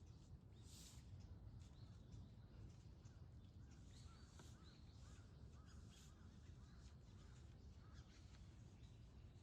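Near silence outdoors at dawn: a low steady background rumble with faint distant bird calls, a quick run of short arched notes in the middle.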